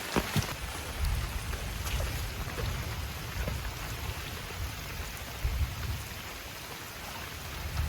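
Heavy rain falling steadily, with scattered drops ticking close by and a few swells of low rumble.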